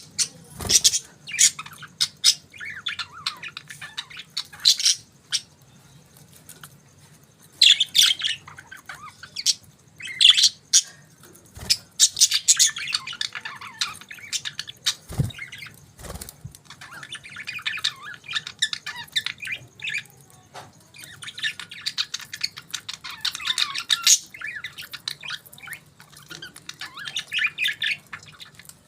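Budgerigars chirping and warbling in quick, irregular clusters, with a few sharp clicks and a faint steady hum underneath.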